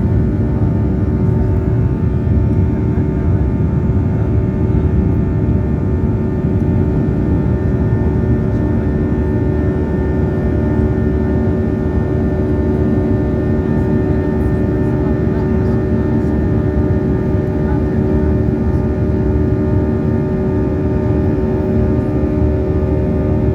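Boeing 737-800's CFM56-7B jet engines heard from inside the cabin: a steady, loud rumble with a steady droning hum on top.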